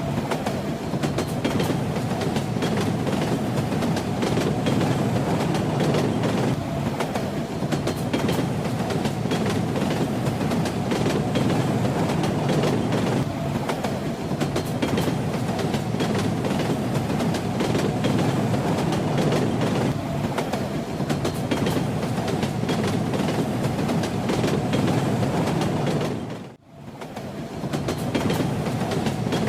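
Train wheels clattering over the rails with a steady rumble beneath. Near the end the sound briefly fades almost to nothing and comes straight back.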